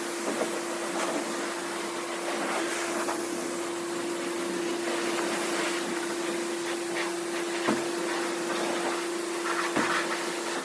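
Self-serve car wash pressure washer running: a steady spray hiss over a constant pump hum, with a couple of short knocks near the end.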